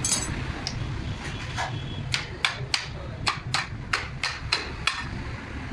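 A hammer striking metal in a quick run of about ten blows, roughly three a second, starting about two seconds in, with a few lighter taps before. A low traffic rumble runs underneath.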